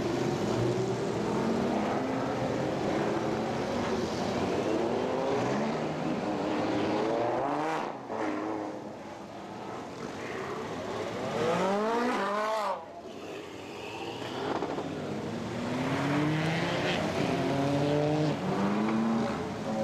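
High-performance car engine accelerating hard, the revs climbing steeply and dropping off sharply about eight and thirteen seconds in, then climbing again in short steps.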